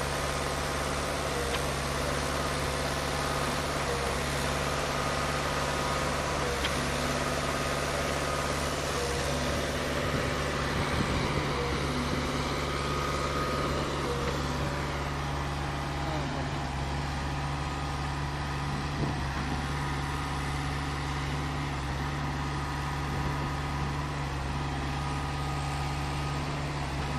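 Concrete pump running at a steady, unchanging pitch and level, with a constant low hum.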